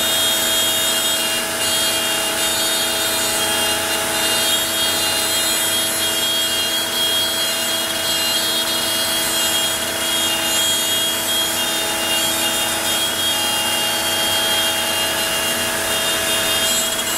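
CNC router spindle running steadily with a high whine while its bit cuts out a part, a couple of minutes before the job ends.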